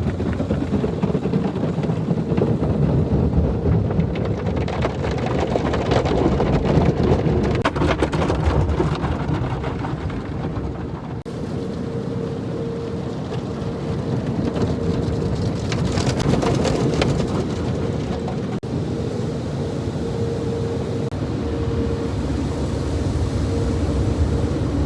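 Car wash running: water spraying and drumming on the car over a steady machine hum.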